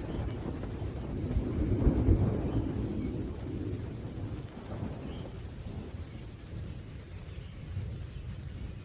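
Rolling thunder rumbling low, swelling about two seconds in and then slowly dying away, over a faint steady hiss of rain.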